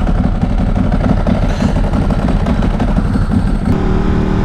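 Ducati 1098's L-twin engine running with an uneven, pulsing low rumble, settling about three and a half seconds in into a steadier, even-pitched hum.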